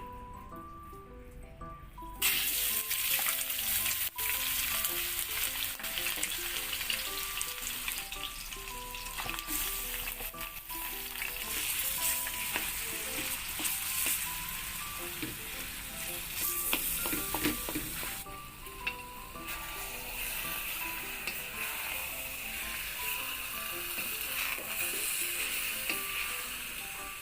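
Ground beef and pork sizzling as they fry in hot olive oil in a wok, with the sizzle starting suddenly about two seconds in. Faint background music with a stepping melody plays underneath.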